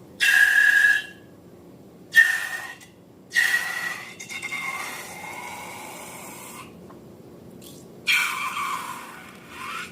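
Air squealing out through the stretched neck of a balloon in four or five separate bursts, the longest a wavering squeal of about three seconds that fades away.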